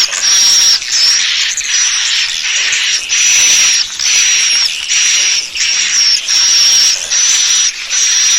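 Swiftlet lure call, the twittering call of swiftlets played back to draw the birds in to roost. It is a steady run of buzzy, hissy chirps, each with a thin high whistle on top, repeating evenly a little more than once a second.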